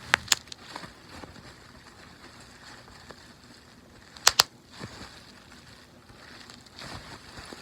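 Oily hands rubbing and massaging close to the microphone, a soft wet swishing, with two pairs of sharp taps, one right at the start and another about four seconds in.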